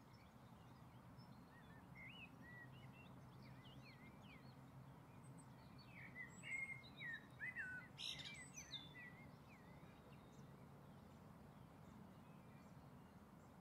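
Faint chirps of small birds, short rising and falling notes in scattered runs that are busiest about halfway through, over a low steady background hum.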